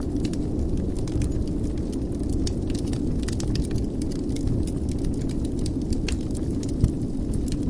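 Wood fire burning in a fireplace: a steady low rush of flame with scattered crackles and small pops, one louder pop near the end.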